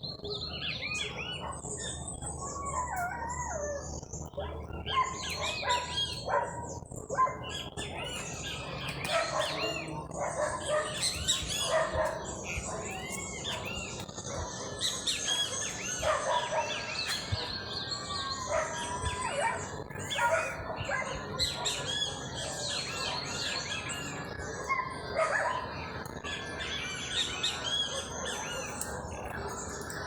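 Many songbirds singing and chirping together in a dense, overlapping chorus of short calls and trills.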